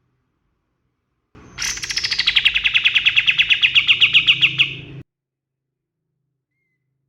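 Kapas tembak (triller) song: a rapid trill of about ten notes a second. It slides down in pitch at the start, then holds steady, and cuts off abruptly.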